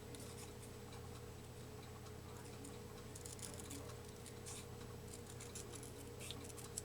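Faint, irregular snipping of small scissors cutting paper, over a steady low electrical hum.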